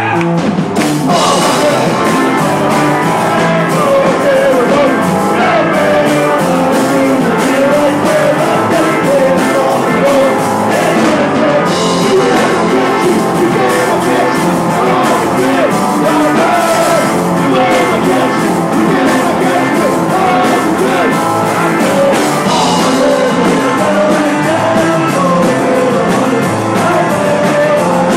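Live rock band playing loudly, with electric guitar, drums and sung vocals.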